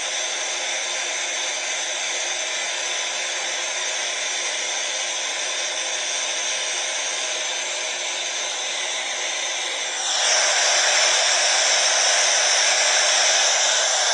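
Electric hair dryer running steadily, a constant rushing blow with a faint whine. About ten seconds in it becomes louder and brighter, then holds steady again.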